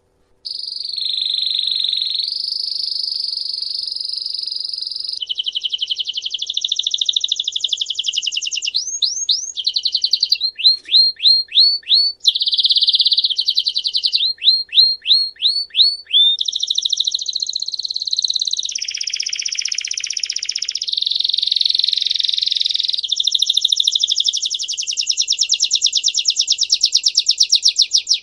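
A songbird singing a continuous song of long rolled trills, each held for a few seconds, broken by runs of quick repeated rising notes.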